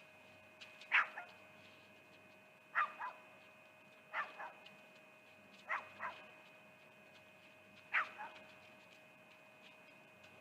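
An animal barking in a slow series: five sharp, falling yelps, each followed closely by one or two quieter ones, repeating every second and a half to two seconds.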